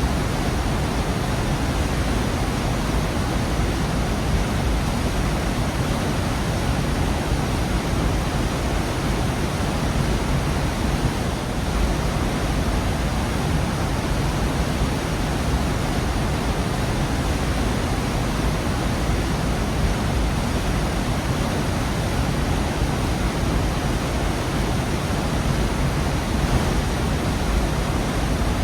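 Gorge waterfall, water falling and rushing in a steady, full-bodied roar-like hiss, heaviest in the low end, unchanging throughout.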